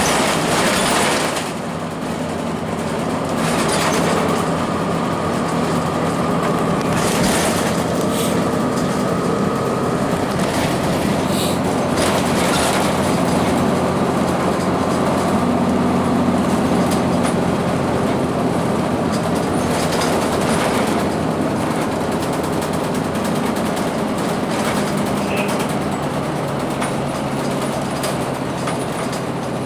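2002 Blue Bird CS transit bus running along, its Cummins ISC diesel engine with the Allison automatic transmission under a steady road-and-rattle noise. A few brief knocks or bumps break through, the first about half a second in.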